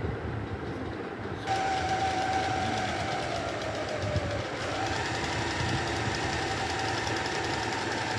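Singer Fashion Maker electric sewing machine stitching on its final test after repair. It runs quietly at first, speeds up about a second and a half in and then runs steadily with a motor whine, which steps up a little in pitch around the middle.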